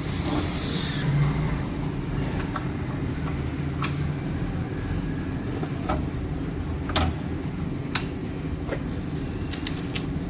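Motorcycle engine running steadily, with a few sharp clicks in the middle and a short hiss near the start and again near the end.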